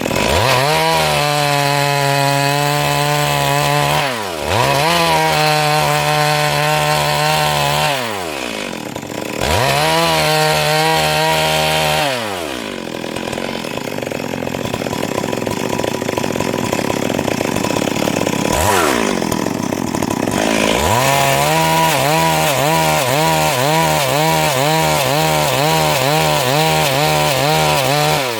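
Stihl MS 382 chainsaw engine revving up and dropping back several times, then running at high speed with a rapidly wavering pitch as it saws through the siris log.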